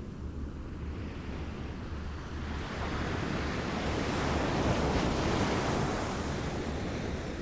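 Small waves lapping against a shore, one wash swelling about a third of the way in and easing off near the end, over a steady low rumble.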